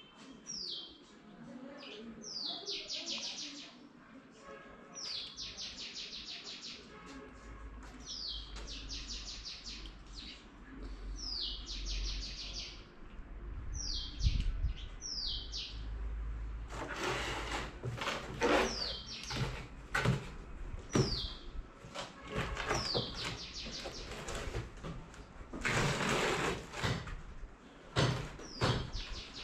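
A small bird singing over and over, each phrase a sharp high falling note followed by a fast rattling trill, about every two to three seconds. From about halfway in, irregular sharp clicks and rustles join it.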